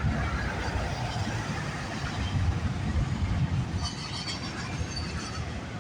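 CN intermodal double-stack freight train rolling past with a steady low rumble of wheels on rail. Brief high-pitched squeals come in about four seconds in.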